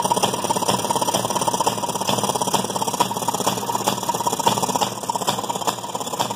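1929 Maytag gas wringer washing machine's single-cylinder two-stroke engine running steadily, its rapid, even firing pulses mixed with the rattle of the washer mechanism.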